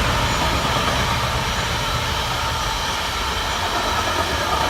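Class 66 diesel freight locomotive passing through the station: a steady rumble of engine and wheels on the rails.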